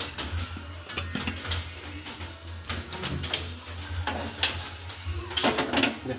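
Kitchen handling noises: scattered light clicks and knocks, several a second, over a steady low hum.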